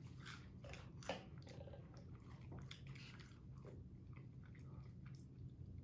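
Faint chewing of crunchy spicy cheese puffs, with a few soft crunches scattered through.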